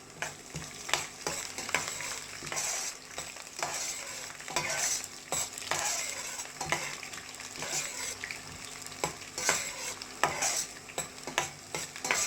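Garlic frying in hot sesame and mustard oil with mustard seeds and dals, sizzling steadily while a spoon stirs it, scraping and knocking against the pan in irregular strokes.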